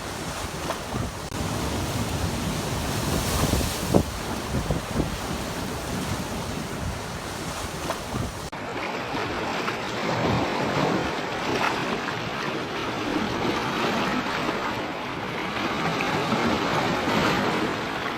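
Sea waves washing over a rocky shore, with wind buffeting the microphone as a low rumble. A single sharp knock about four seconds in is the loudest moment; about halfway the sound changes abruptly, the wind rumble dropping away while the surf keeps washing in surges.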